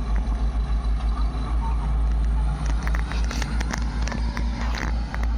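Heavy diesel machinery engine running with a steady low throb, joined about three seconds in by a run of sharp clattering knocks.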